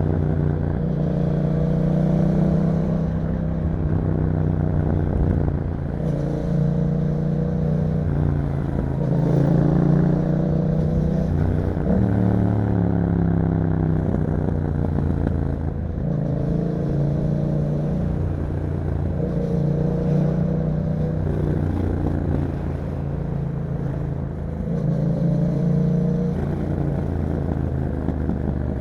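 2021 Yamaha MT-07's 689 cc parallel-twin engine through an Akrapovič exhaust, under way with the revs rising and falling again and again as the rider rolls on and off the throttle and changes gear.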